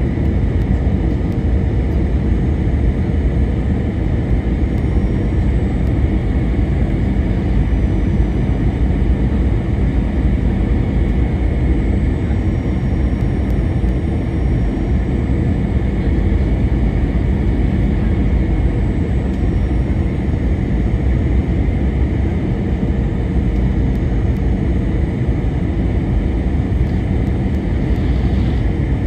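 Steady cabin noise of an Airbus A321-200: the engines running and air rushing past the fuselage, a constant low rumble with a faint steady whine above it.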